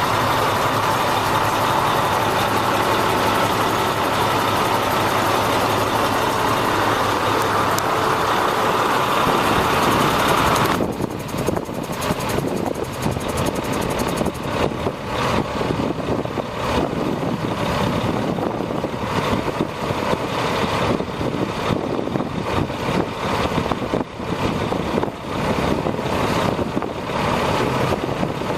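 1997 International 2674 crane truck's diesel engine running steadily, then about eleven seconds in the sound drops suddenly to a lower, uneven idle.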